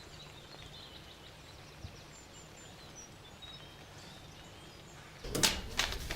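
Quiet outdoor background with a few faint bird chirps. About five seconds in, it gives way to a louder background with a few sharp knocks.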